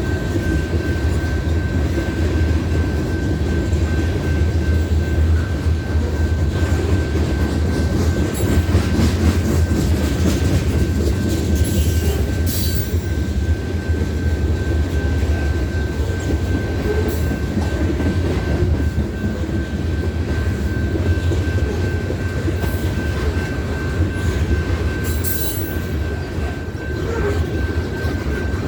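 Loaded freight cars of a BNSF covered-hopper train rolling past, a steady heavy rumble with wheel clatter over rail joints and brief wheel squeals about twelve seconds in and again near twenty-five seconds.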